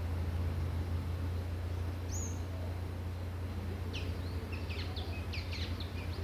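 Small birds calling: one high whistled note about two seconds in, then a quick run of sharp, high chirps from about four seconds on, over a steady low rumble.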